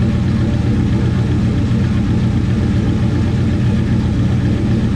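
1969 Plymouth Valiant's turbocharged 360 Magnum V8 idling steadily on its first heat cycle with freshly fitted cylinder heads, running smoothly.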